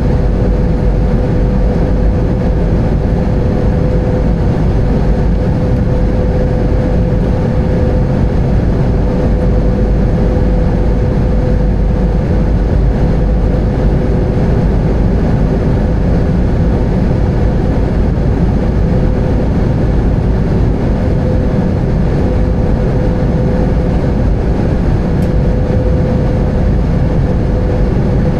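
Airbus A320 heard from inside the cabin: steady, loud engine and airflow rumble with a constant hum tone running through it.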